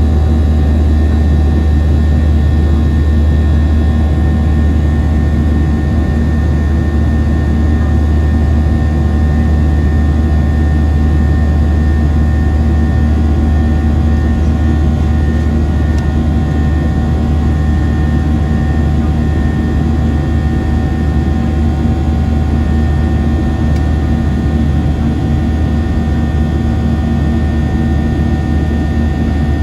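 Boeing 737-700's jet engines heard from inside the cabin: a steady, deep drone with a few thin, steady whining tones above it.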